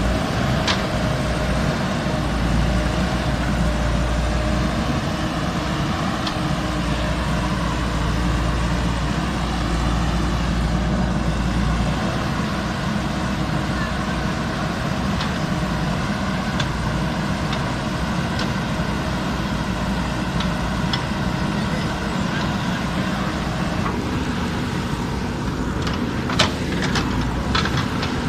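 JCB backhoe loader's diesel engine running steadily under working load while digging, with a few sharp knocks near the end.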